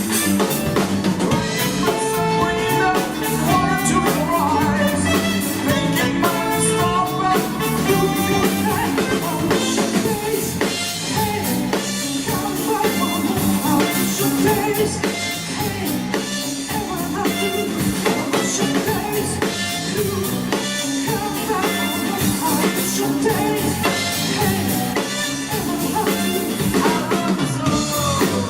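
Live band playing a pop-rock song with a sung vocal over drum kit, bass and guitar.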